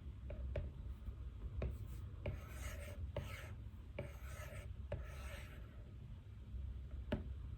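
Pen writing on paper: two scratchy stretches of strokes, each a little over a second, in the middle, among light scattered taps and clicks on a desk, over a steady low room hum.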